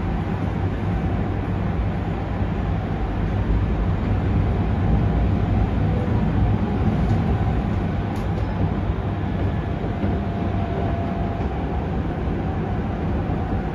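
Running sound of a Yokohama Minatomirai Railway Y500 series electric train with Hitachi IGBT inverter drive, heard from inside the car: a steady rumble of wheels and motors as it travels.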